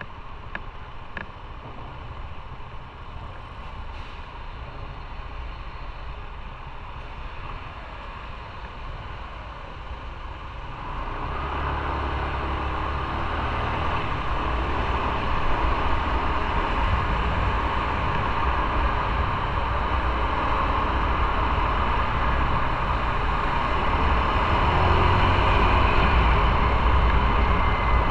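Motorcycle being ridden on the road: steady engine rumble mixed with wind and road noise. It steps up louder about eleven seconds in and keeps growing slightly louder after that.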